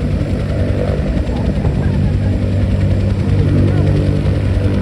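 Military helicopter running with its rotor turning, a loud steady low drone with several held tones.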